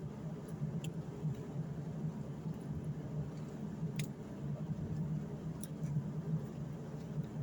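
A small engine running steadily with a low, even hum, with a few sharp clicks over it, about one, four and five and a half seconds in.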